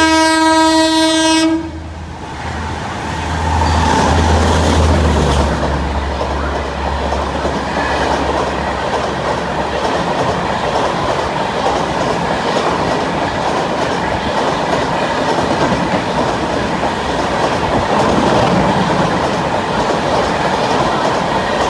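A train horn sounds one blast lasting about a second and a half, then the train passes. There is a low engine rumble for several seconds, followed by the steady rush and clickety-clack of the wagons rolling by.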